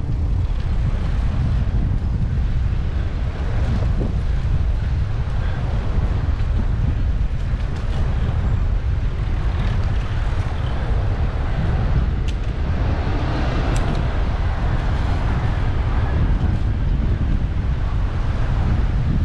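Wind buffeting the microphone of an action camera mounted on a moving bicycle, a steady low rumble, with road and traffic noise underneath. A couple of sharp clicks come about twelve and fourteen seconds in.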